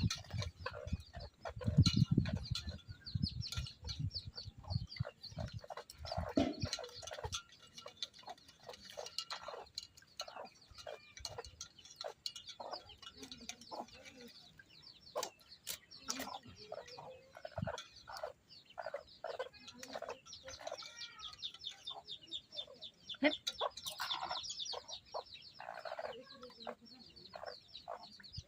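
Chickens clucking and calling in short, repeated calls throughout, with scattered clicks and a few low thuds in the first few seconds.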